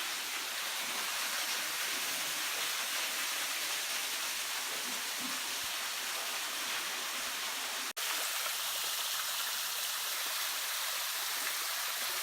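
Steady rushing hiss of falling water from a waterfall, with a brief dropout about eight seconds in.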